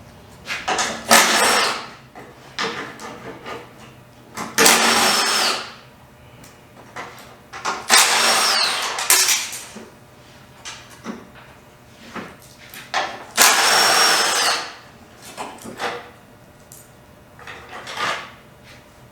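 Handheld power tool running in short bursts of about a second each, five times, its motor pitch sliding down as each burst ends: working off the bumper's fasteners.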